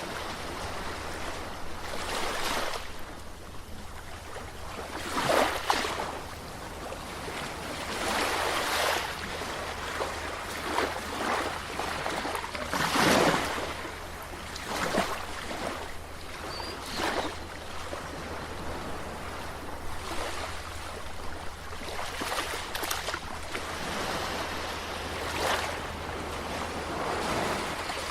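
Sea waves washing and splashing against the shore, swelling and falling back every second or two, with a few sharper splashes standing out.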